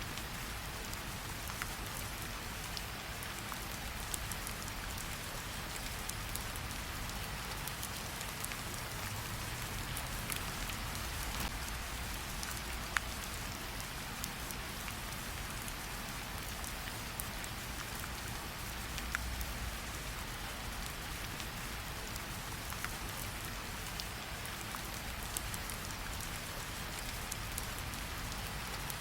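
Steady rain falling, with scattered sharp crackles and pops from a campfire.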